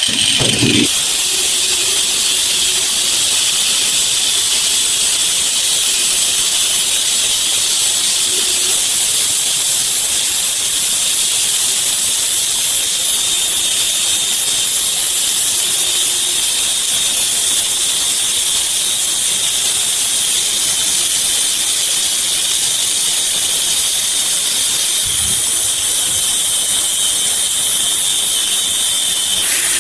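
A steady, loud hiss with a faint high whine running through it, broken only by a couple of short low thuds, one right at the start and one near the end.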